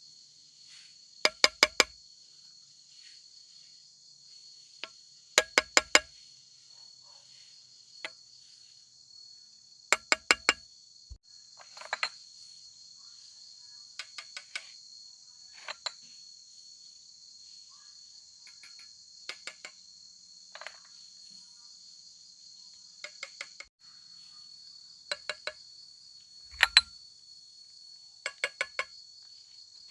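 A steady, high chorus of crickets or cicadas, broken by sharp ringing clinks in quick groups of three or four every few seconds, like glass bottles knocked against each other.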